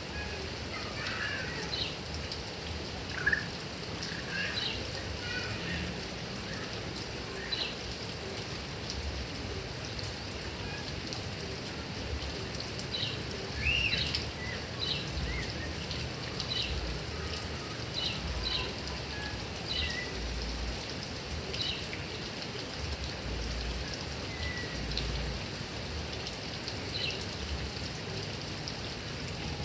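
Steady heavy rain falling on grass and trees, with scattered short high chirps throughout, the loudest about 3 seconds in and about 14 seconds in.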